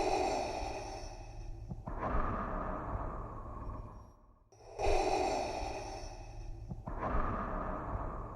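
Darth Vader's mechanical respirator breathing sound effect: slow, rhythmic inhale and exhale through the mask, each breath about two seconds long, the cycle repeating steadily.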